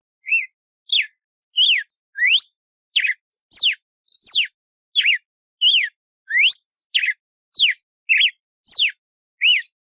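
Red-cowled cardinal (galo-de-campina) singing: a steady series of clear whistled notes, about three every two seconds, some sweeping up and some sweeping down.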